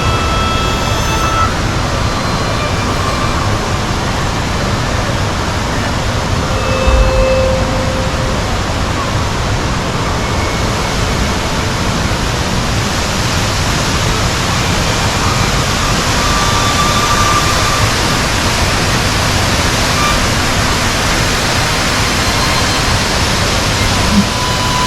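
A steady, loud rushing noise that stays even throughout, with a few faint short tones coming through and a brief low thump about seven seconds in.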